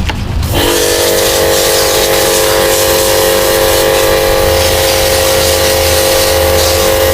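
Small electric pressure washer running and spraying water, a steady motor whine under a hiss of spray. It starts suddenly about half a second in.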